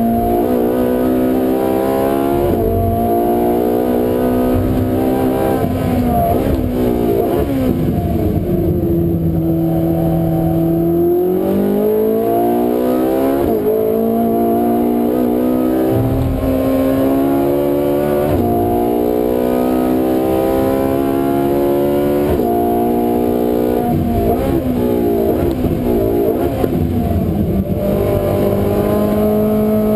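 Ferrari 458 Italia's V8 with an Akrapovic exhaust, heard from inside the cabin under hard driving. The revs climb and drop over and over as it is run up through the gears and shifted down, with a steadier, lower stretch about nine seconds in.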